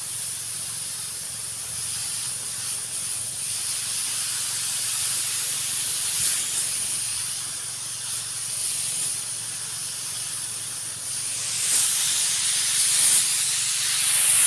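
High-pressure power sprayer spraying pesticide, a continuous high hiss of spray from the nozzle over the faint steady hum of the sprayer's motor. The hiss grows louder about three-quarters of the way through.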